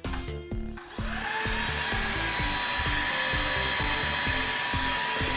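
Orfeld cordless stick vacuum switched on about a second in, its motor whine rising and settling into a steady whir of suction, with background music playing.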